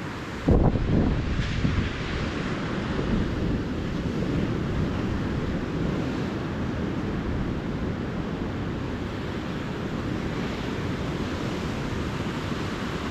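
Ocean surf breaking and washing on a beach, a steady rush of waves. Wind buffets the microphone in a loud low gust about half a second in, with smaller gusts after.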